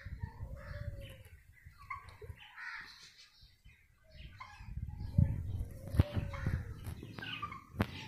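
Birds calling in a poultry yard: scattered short calls and chirps, with a low rumble that grows louder about halfway through and two sharp clicks in the second half.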